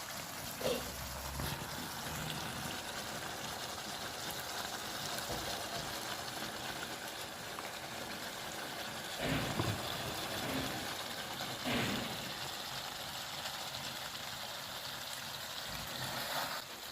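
Mutton fry sizzling steadily in the pan as it finishes cooking, with a few short knocks of a utensil against the pan: once about a second in, a couple around the middle, and once near the end.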